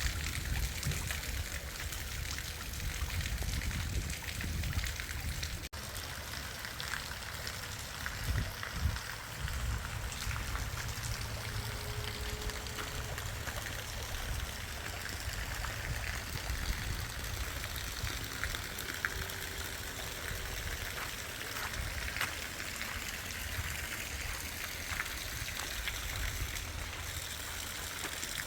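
Steady heavy rain, with water running and trickling.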